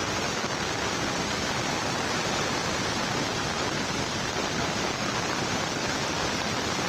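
Steady, unbroken rushing of water, even throughout with no separate splashes or knocks.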